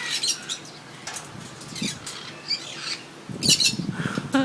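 Pet parrots chattering: scattered short, high chirps and squawks, then a denser, louder flurry about three and a half seconds in.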